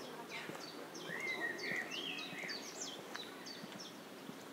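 A songbird singing: a quick run of sharp, high notes that each drop steeply in pitch, with a lower warbling phrase in the middle. It sounds over steady outdoor background noise.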